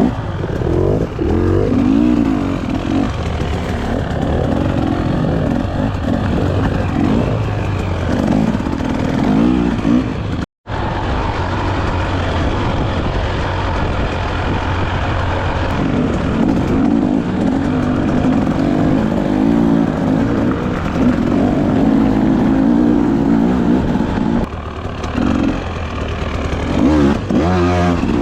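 Dirt bike engine being ridden hard off-road, revving up and down continuously as the throttle opens and closes. The sound cuts out completely for a moment about ten seconds in.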